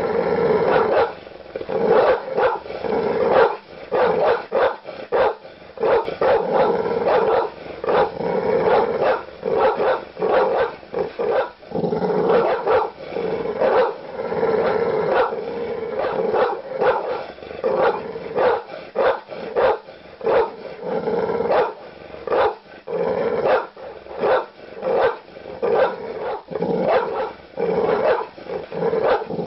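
Large dog barking aggressively in deep, rapid, repeated barks with only short gaps between them.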